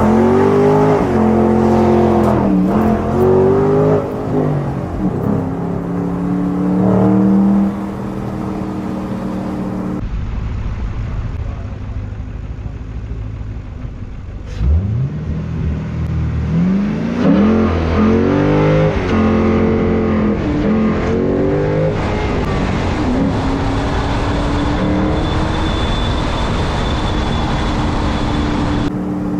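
Straight-piped Ford Mustang accelerating hard from a stop with a manual gearbox, the engine note climbing and dropping back at each gear shift. About fifteen seconds in comes a second launch: the revs climb sharply from low and run up through the gears again, settling into a steady cruise near the end.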